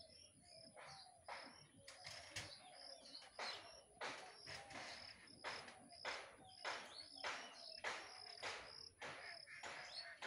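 Birds chirping with short, harsh calls repeated about twice a second, over a faint steady high-pitched whine.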